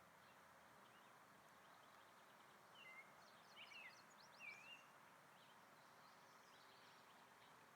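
A songbird singing faintly, a short phrase of chirps and quick falling notes about three to four and a half seconds in, over a steady background hiss.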